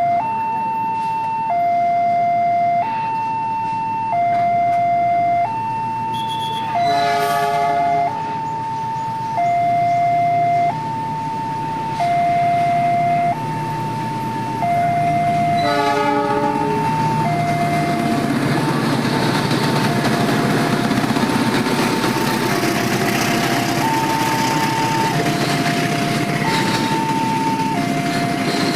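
Railway level-crossing warning alarm, alternating between a higher and a lower tone, each held about a second and a half. A diesel locomotive horn sounds twice, nine seconds apart. In the second half a container freight train rumbles past, its wheel noise rising under the alarm.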